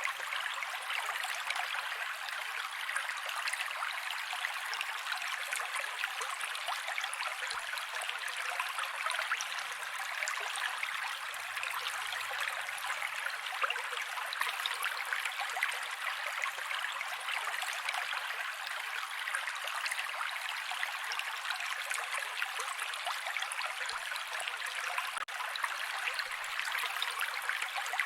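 Mountain creek water flowing steadily, an even rushing with no breaks.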